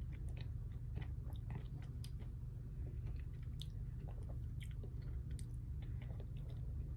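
A person chewing food, with many small irregular wet clicks and smacks of the mouth, over a steady low hum.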